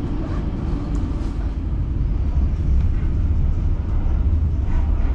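Steady low rumble of a moving passenger train heard from inside an NS ICRm coach, wheels running on the rails, growing slightly louder.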